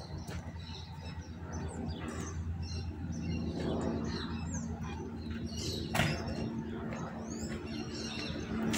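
Small birds chirping and twittering, with a few quick gliding whistles, over a low steady hum. A single sharp knock sounds about six seconds in.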